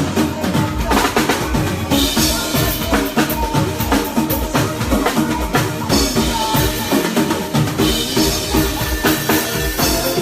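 Live band playing with the drum kit to the fore: kick drum, snare and cymbals keeping a steady beat, with cymbal crashes swelling about two seconds in and again around six seconds.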